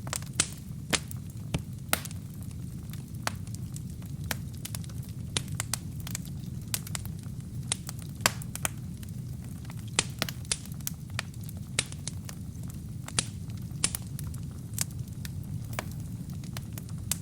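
Wood fire burning in a fireplace: irregular sharp crackles and pops from the burning logs, several a second at times, over a steady low rumble.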